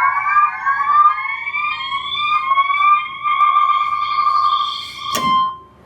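Oberheim OB-Xa polyphonic analog synthesizer sounding a sustained, wavering note that glides slowly upward in pitch, then holds steady. It stops with a short click near the end.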